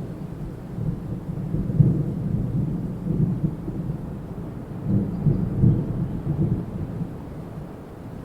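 Strong wind gusting through trees, a low rumble that swells about two seconds in and again around five to six seconds in.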